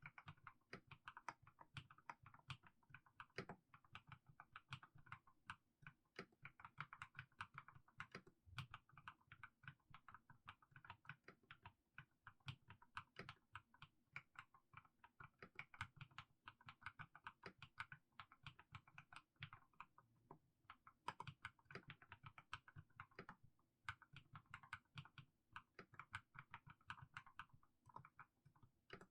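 Typing on a mechanical keyboard with fully lubed Haimu Sea Salt switches: a continuous run of keystrokes, with a couple of brief pauses.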